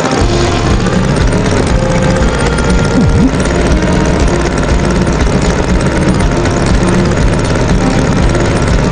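Engine sound of a farm tractor running steadily, a loud continuous rumble.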